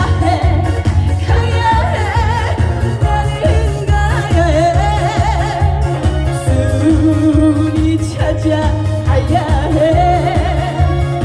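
A woman singing a Korean trot song live over loud backing music, her held notes wavering in a wide vibrato above a heavy, steady bass line.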